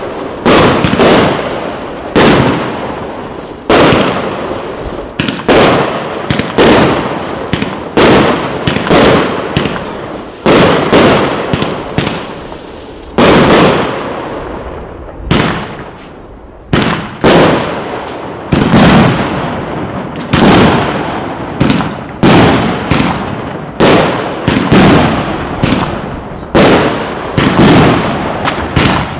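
A 304-shot 1.2-inch fireworks cake firing shot after shot, about one or two a second. Each is a sharp bang that fades quickly, with a short lull about halfway through.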